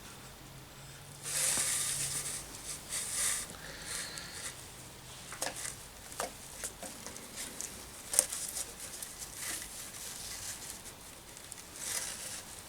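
Cord being pulled and knotted onto a craft-stick bird cage: handling rustles, loudest for a couple of seconds near the start, then scattered light clicks and taps.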